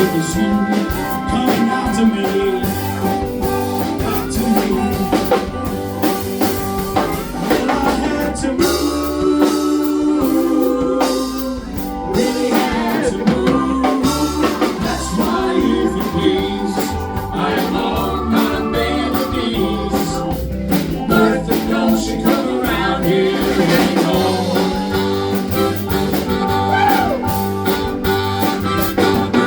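A live band playing a blues-style song, with a singer over guitar and drums.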